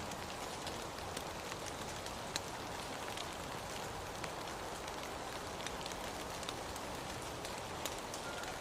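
Steady rain, an even hiss with scattered sharp taps of individual drops. A faint high steady tone starts near the end.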